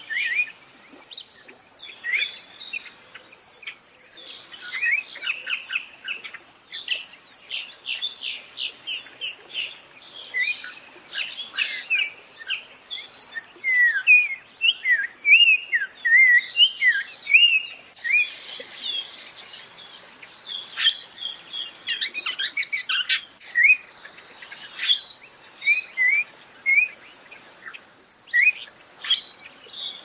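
Birds chirping and calling in quick, overlapping short notes, many of them sliding downward, over a steady high hiss. A rapid run of sharp ticks comes about two-thirds of the way through.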